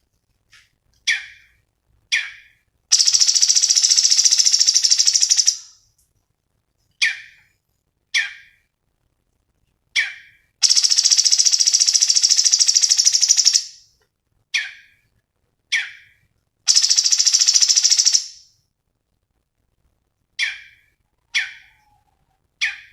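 Cucak cungkok song: short, sharp chip notes repeated every second or so, broken three times by a loud, fast buzzing trill lasting about three seconds.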